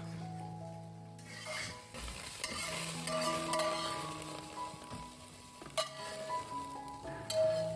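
Food sizzling as it is stir-fried, with a surge of hiss in the first half and a couple of sharp clanks later on, over light background music.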